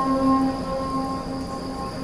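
The held end of a muezzin's sung phrase of the adhan, the call to prayer, dying away as it echoes through the mosque's loudspeakers in the pause before the next phrase.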